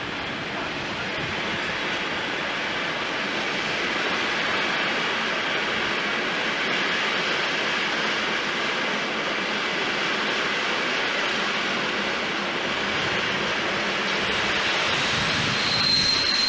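Passenger train at the platform: a steady rushing train noise, with a brief high-pitched squeal near the end.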